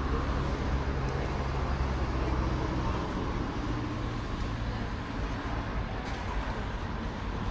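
Street traffic: a motor vehicle's engine hums low and steady close by over general road noise, easing off about three seconds in.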